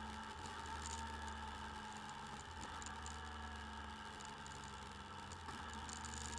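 Motorcycle engine running at a steady speed, picked up by a bike-mounted camera's microphone, with light rattling ticks over it.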